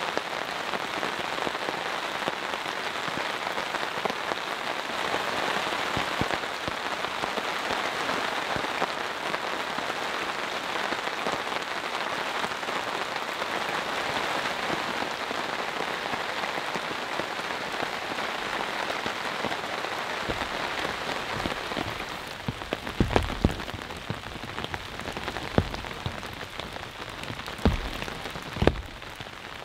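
Steady rain falling on a tarp and the wet forest floor. About twenty seconds in, the rain eases, and several large drops land with sharp, separate taps.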